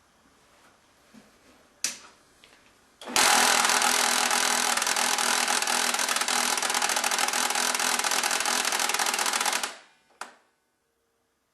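HP LaserJet 1150 laser printer making a loud, rapid mechanical rattle for about six and a half seconds, then stopping abruptly: the abnormal noise of a dead printer with an unknown internal fault. A single click comes before it starts and another just after it stops.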